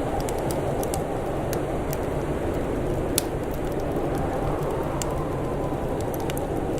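Wood fire crackling with scattered small pops, one sharper pop about three seconds in, over a steady low rumble.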